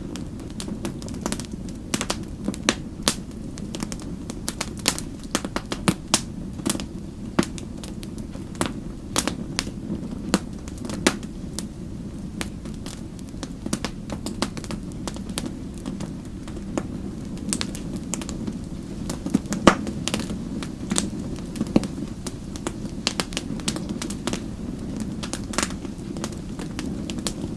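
Wood fire crackling, with a steady low rush of flames under frequent sharp irregular pops and snaps, one louder pop about twenty seconds in.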